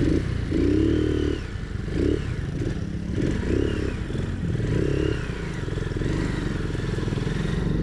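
Motorcycle engine running on the move, its revs rising and falling four or five times. The rider says it does not sound good because the wrong carburetor is fitted.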